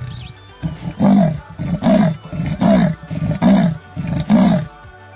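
A cheetah's call played as a recording: five calls at a steady pace, each rising and falling in pitch.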